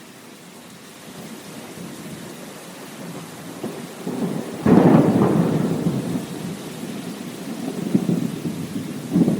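Steady rain with thunder. A sudden loud thunderclap just under halfway through rumbles off over several seconds, and a second rumble swells near the end.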